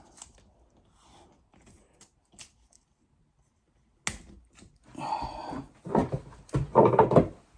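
Handling noises from taping cables together: faint clicks at first, then about four seconds in a sudden louder run of rasping, scraping sounds lasting about three seconds.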